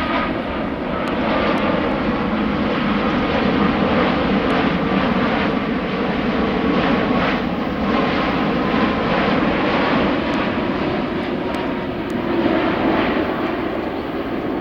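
Airliner flying low overhead on its approach to land, its engines making a loud, steady rumble with a faint whine.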